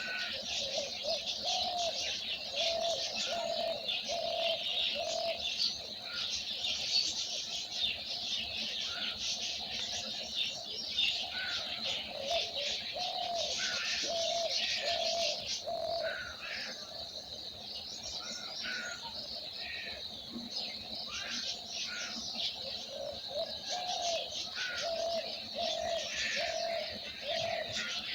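Many small birds chirping and twittering together in a dense chorus, with a lower bird call repeated in runs of even notes, about one and a half a second, that come and go several times.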